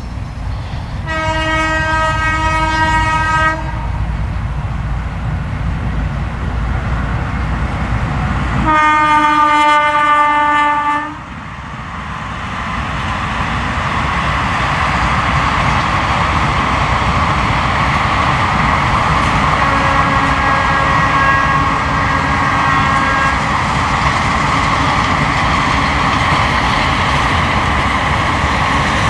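WAP4 electric locomotive sounding its horn in two long blasts a few seconds apart, the second bending slightly in pitch. Then the steady rumble and wheel clatter of its passenger coaches rolling past.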